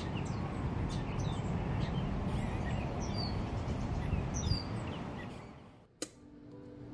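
Outdoor ambience: several birds chirping in short calls over a steady low background rumble, fading out near the end. A single sharp click comes about six seconds in.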